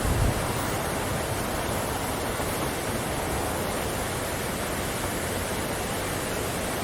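Waterfall rushing in a steady, even roar, with a brief low buffet of wind on the microphone just after the start.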